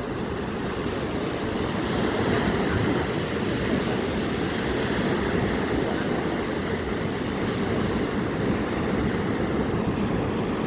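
Steady rushing of sea waves mixed with wind buffeting the microphone, rising and falling gently in level.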